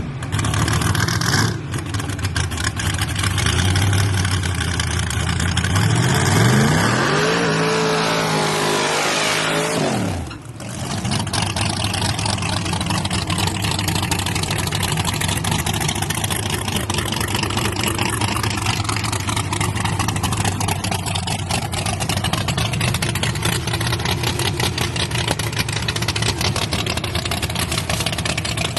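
Drag-racing Chevrolet S10 truck engine running loudly. About a third of the way in it revs up and back down, then settles into a steady idle.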